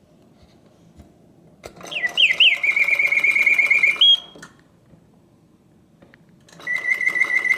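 Antique Bontems singing bird cage's bellows-driven whistle: after a click about a second and a half in, it sings a short song of rising glides and a fast warbling trill, stops for about two seconds, then starts singing again near the end. The stop-and-restart is the cage's pause feature working as it should.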